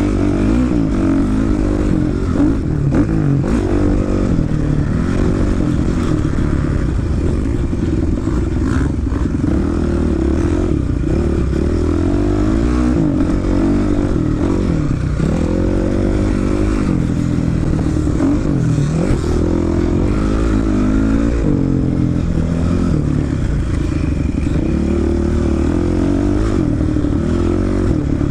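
Dirt bike engine ridden hard around a motocross track, revving up and easing off again and again as the rider works the throttle and gears, over a steady low rumble of wind and ground.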